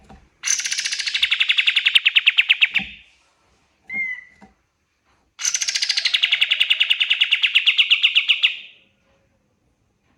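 Kapas tembak (white-shouldered triller) singing: two long, rapid trills of about three seconds each, every one starting high and settling lower while getting louder, with a short single call between them.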